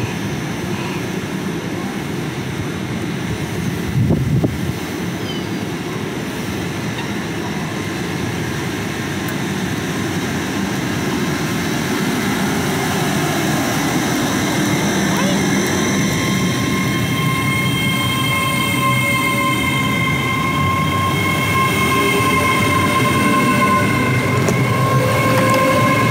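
Great Western Railway Class 800 train pulling away from the platform: a steady rumble, then a whine in several tones that rises slowly in pitch and grows louder over the second half as the train picks up speed.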